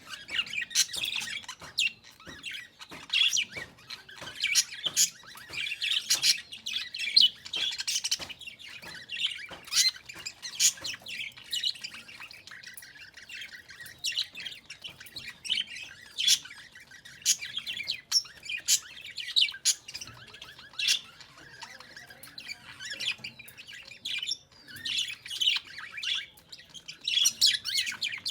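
Small birds chirping, with quick runs of short, high calls repeated throughout and the odd harsher squawk.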